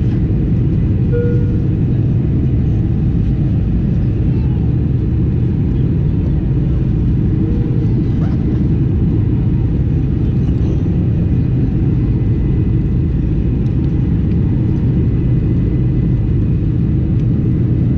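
Steady low rumble of a Boeing 747-422's engines and rushing air heard inside the passenger cabin, holding an even level throughout.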